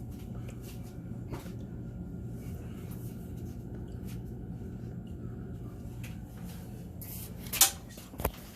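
A steady low hum with faint scraping and handling noises, then a loud sharp snap near the end and a lighter click just after.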